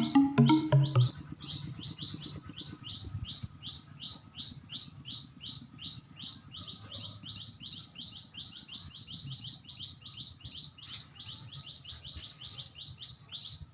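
Background music stops about a second in. A bird then keeps up a steady series of short, falling chirps, about four a second, over a faint low rumble.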